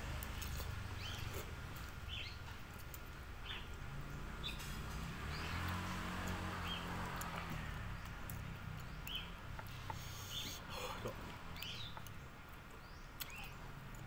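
A bird calling over and over with short chirps about once a second, over a steady low outdoor rumble. A vehicle passes about five to seven seconds in.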